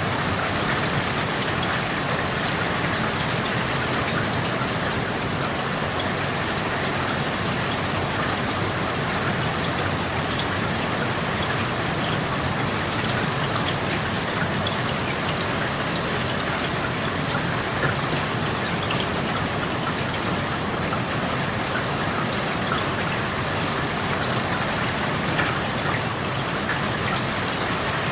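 Steady rain through an open window, an even hiss with many small drip ticks.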